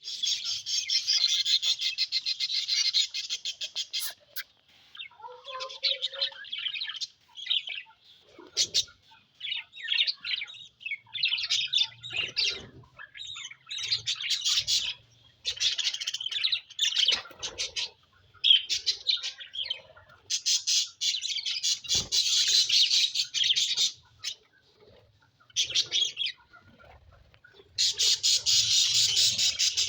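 Budgerigars giving harsh, rasping squawks in repeated bursts, some several seconds long and others short, with brief pauses between.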